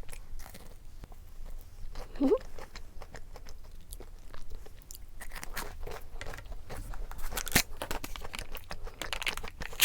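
A person biting into and chewing a frozen dessert close to the microphone, with crisp crunching and crackling bites that come thicker in the second half.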